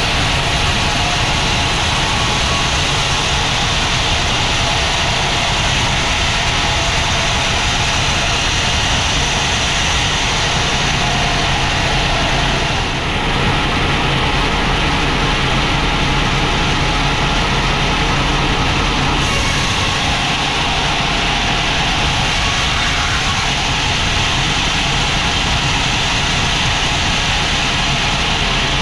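Sawmill machinery running steadily: a constant low engine-like hum under a loud, even noise, with a brief dip about 13 seconds in.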